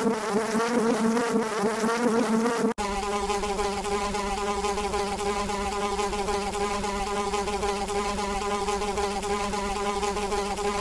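Flying insect buzzing with its wingbeats, a steady pitched drone. About three seconds in it cuts abruptly to a second, steadier buzz at a slightly lower pitch.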